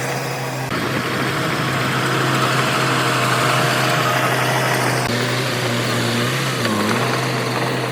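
Diesel engine of heavy construction machinery running steadily, its note dipping briefly near the end as it comes under load.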